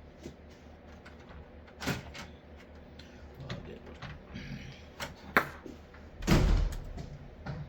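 Scattered clicks and knocks of objects being handled on a work surface, over a low hum, with a sharp click about five seconds in and a louder low thump about a second later.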